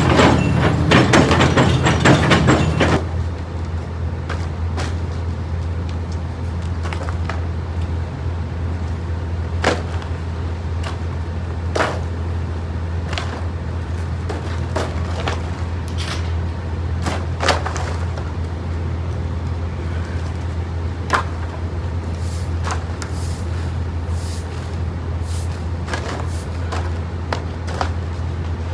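Truck engine running steadily at a low hum, with scattered clicks and knocks from the loading work. A louder, busier noise over the hum stops about three seconds in.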